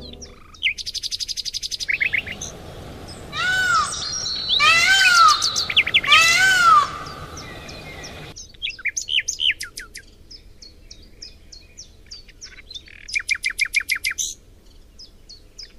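Birds calling: a rapid trill, then three loud calls that each rise and fall in pitch, about a second and a half apart, followed by many short scattered chirps and another rapid trill near the end. A steady hiss lies under the first half and stops abruptly about eight seconds in.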